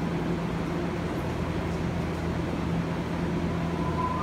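A stopped electric commuter train hums steadily at the platform with its doors open. Near the end, a steady electronic chime of several high tones begins.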